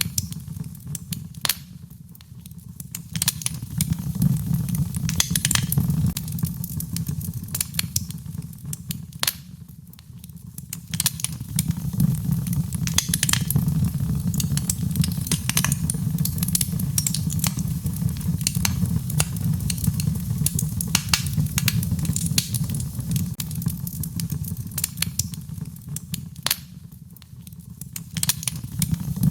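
Fireplace fire crackling: many sharp, irregular pops and snaps over a steady low rumble of flame. The rumble eases and swells again a few times.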